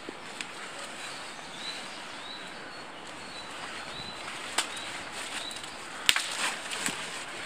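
A small bird repeats short, high chirps over a steady outdoor background. A blanket rustles as it is handled over tree branches, with a few sharp clicks in the second half, the loudest about six seconds in.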